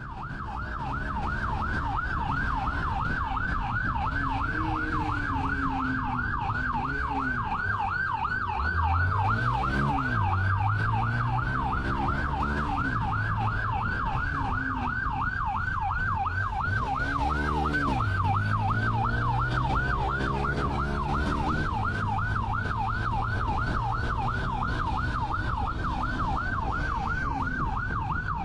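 Police siren wailing in a fast yelp, sweeping up and down about three times a second without a break. Beneath it a vehicle engine revs up and down several times as the pursuit speeds through curves.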